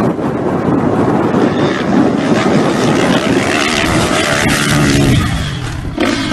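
Dirt bike engine running loud under wind noise, its revs falling about four seconds in.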